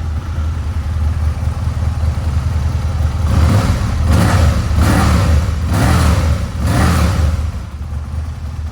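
A 2000 Aprilia RSV Mille R's 998 cc V-twin idling, blipped four times about a second apart partway through, then settling back to idle.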